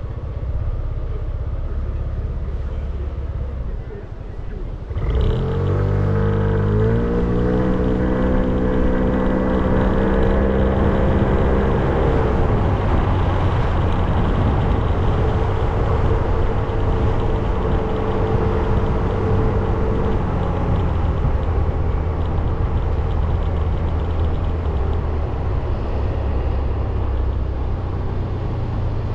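Motorcycle engine pulling away about five seconds in, its pitch climbing as it accelerates and then levelling off, followed by steady riding with road and wind noise.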